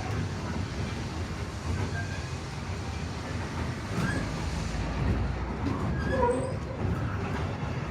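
Railroad passenger car rolling along the track behind a steam locomotive: a steady low rumble.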